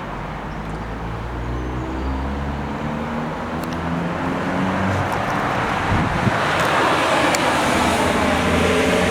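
Road traffic: a vehicle engine hum that rises in pitch in steps as it pulls away, then a louder rush of passing traffic and wind on the microphone building up over the last few seconds.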